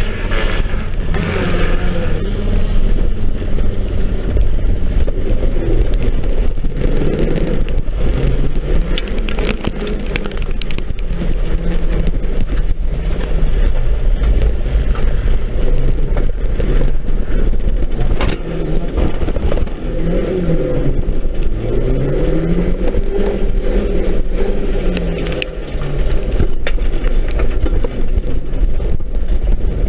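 Banger race car's engine heard from inside its stripped-out shell, revving up and falling back again and again as the driver accelerates and lifts off, over a steady low rumble. Sharp knocks and rattles of the bare body are scattered through it.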